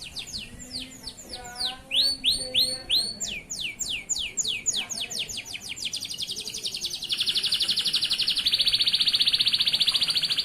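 Male canary singing: runs of quick, high downward-sweeping notes that change phrase about two seconds in, then a very fast, louder trill from about seven seconds on.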